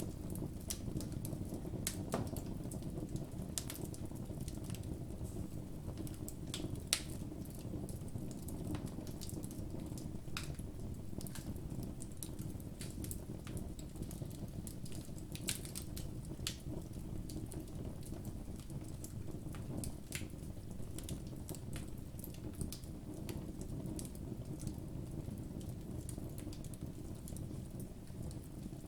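Campfire burning, with irregular sharp crackles and pops over a steady low rushing noise.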